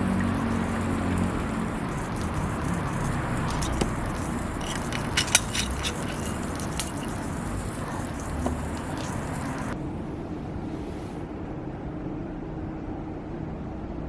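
Wood fire burning in a fire pit over a steady rushing noise, with a cluster of sharp crackling pops a few seconds in.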